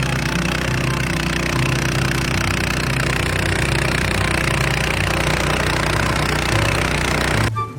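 A steady running engine with loud machine noise over it, cutting off suddenly near the end.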